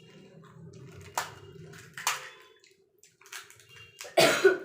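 A person eating golgappa (pani puri): sharp cracks of the crisp shells about one and two seconds in, then a loud wet crunch and slurp of the spiced water near the end.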